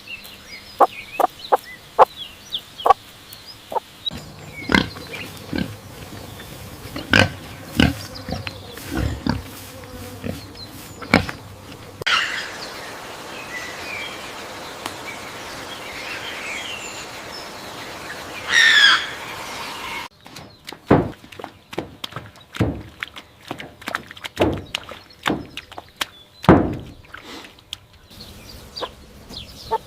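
Farm animals calling in a run of short calls, with bird chirps above them. The background changes abruptly twice, about twelve and twenty seconds in, as one recording gives way to another.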